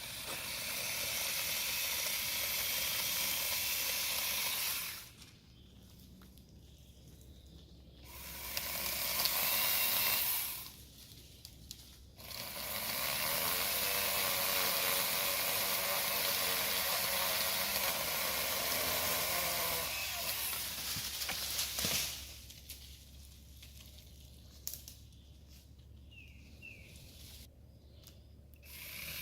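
Cordless 8-inch mini chainsaw cutting branches in three runs, about five seconds, about two seconds, then about ten seconds, with quieter pauses between. In the long run the motor's pitch wanders.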